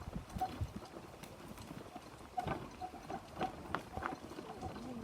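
Irregular knocks and rattles of a wheelchair jolting over a bumpy, hard bush track.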